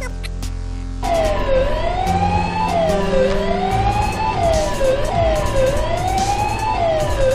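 Siren wailing in a repeating swoop, its pitch dropping sharply then climbing back roughly every one and a half seconds, starting about a second in, over steady low notes of background music.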